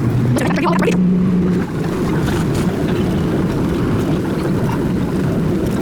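Vintage subway car running on the track, heard from inside the car: a steady rumble of wheels and running gear with a low hum, and a few clicks in the first second.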